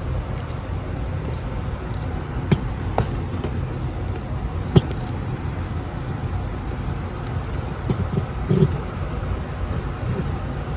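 Vintage Sears ceiling fan running on medium speed, its motor giving off a steady, pronounced hum, with a few sharp clicks, the loudest about five seconds in.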